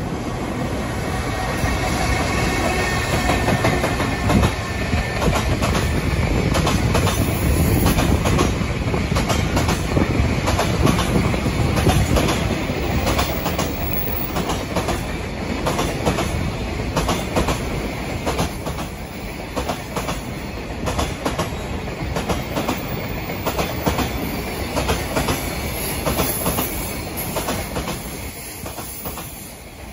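A freight train rolling past, its wheels clacking steadily over the rail joints with some squeal. It is loudest about a third of the way in and eases off toward the end.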